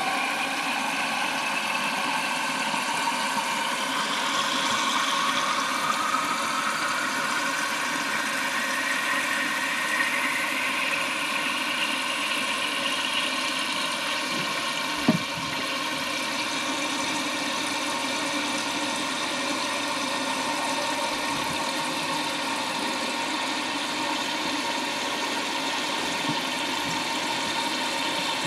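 Toilet tank refilling through its fill valve: a steady rush of water with a hiss that slowly rises in pitch as the tank fills. One sharp knock comes about halfway through.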